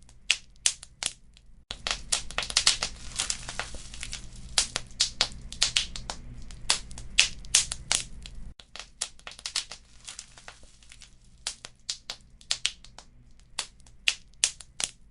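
Wood fire crackling with sharp, irregular pops. From about two seconds in until about eight and a half seconds, the crackle thickens into a dense run over a low rumble, and this stretch starts and stops abruptly.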